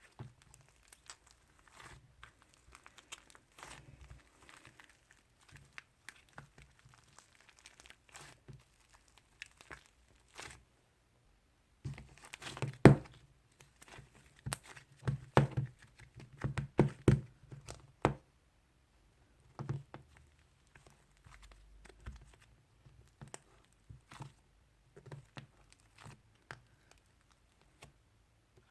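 Slime being squished and kneaded by hand, with air-dry clay being worked into clear slime: a run of sticky clicks, crackles and small pops, louder and denser between about 12 and 18 seconds in.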